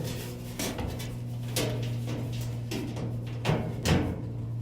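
Sheet-metal dryer panel being handled and worked into place: several light metallic knocks and clunks, over a steady low hum.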